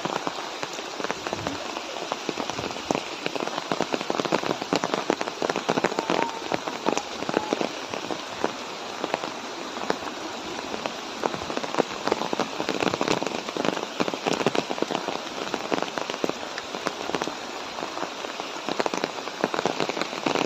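Rain falling steadily, with a dense, irregular stream of separate drops striking a nearby hard surface as sharp ticks.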